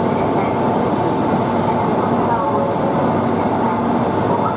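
Shinkansen 700 series train running along the platform: a steady, loud rail rumble with a few held motor tones and faint recurring high hisses.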